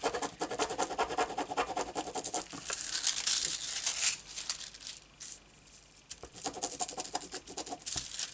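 Ranger transfer-foil sheet crinkling and scratching as it is pressed and rubbed down by hand onto tacky glue. The crackly rubbing goes on for about four seconds, pauses, and picks up again briefly near the end.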